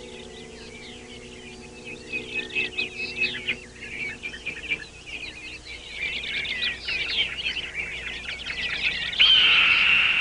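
Many birds chirping in quick, overlapping calls that grow louder about two seconds in. Near the end a single loud, high whistle-like tone comes in suddenly and holds.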